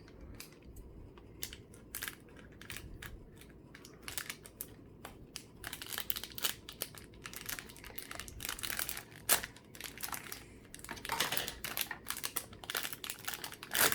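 Toy packaging being handled and opened by hand: crinkling and tearing with scattered clicks, sparse at first and busier in the second half.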